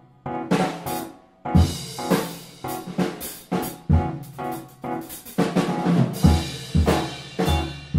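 Band music with a drum kit prominent: kick drum and snare hits in a busy beat over bass and other pitched instruments, easing back briefly in the first second and a half before the drums come back in hard.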